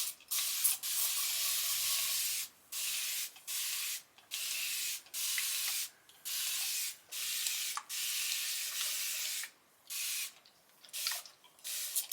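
Fine-mist spray bottle spraying water to wet hair: about a dozen hissing sprays in a row, some short, some nearly two seconds long.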